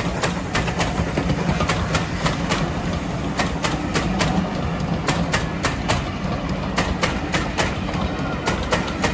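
Passenger coaches of a steam-hauled train rolling past close by: a steady rumble with the wheels clicking over the rail joints, often in quick pairs.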